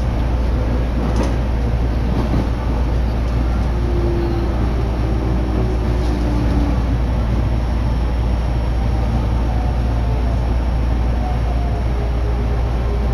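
Running noise heard inside a Sobu Line commuter electric train: a steady low rumble with a faint whine that falls slightly in pitch and a few faint clicks.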